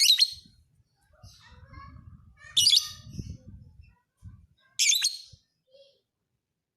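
Lovebird singing in three loud, high-pitched bursts about two seconds apart, with a faint low rumble underneath through the middle.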